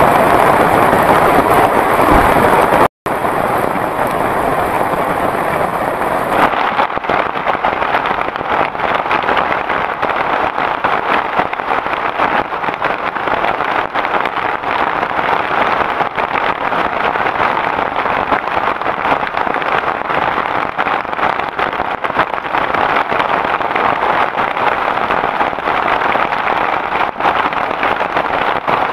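Heavy rain falling steadily, a dense even patter. The sound cuts out for a moment about three seconds in, and its tone changes a few seconds later.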